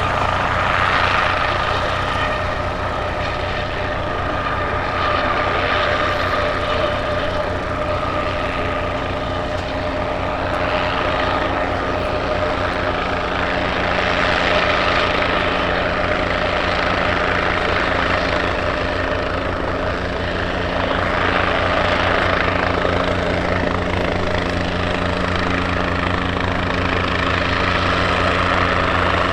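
Guimbal Cabri G2 helicopter's piston engine and rotor running steadily, with the fast rotor beat and a whine, swelling and easing every few seconds.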